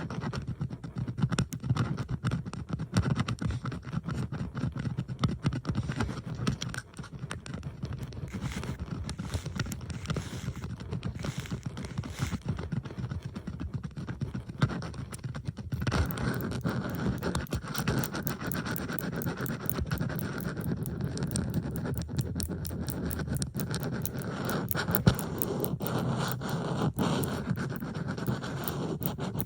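Metal bobby pins being handled, rubbed and scraped close to the microphone, with several layers of pin sounds overlaid into a dense stream of small clicks and scratches. A little past halfway the texture turns denser and steadier.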